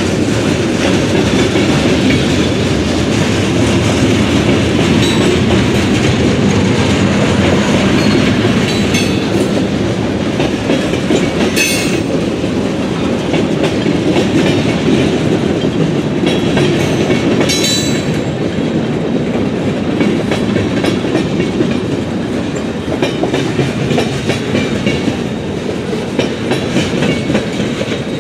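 Freight cars rolling past: a steady rumble of steel wheels on rail. Two short, sharp metallic sounds come about 12 and 18 seconds in.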